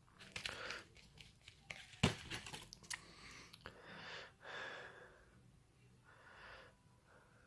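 Fireworks and their packaging being handled while unpacked from a box: irregular rustling and crinkling with small clicks, and one sharp knock about two seconds in.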